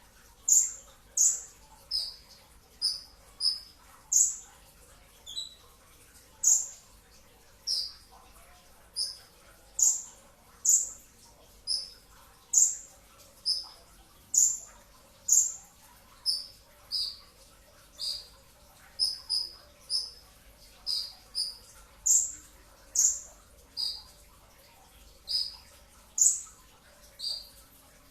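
Kolibri ninja (Van Hasselt's sunbird) singing a dense run of sharp, high, downward-flicking notes, about one or two a second, some in quick pairs or triplets.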